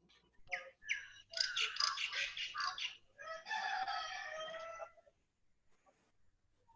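Birds calling: a few short calls and a quick run of calls, then one long call held for about a second and a half.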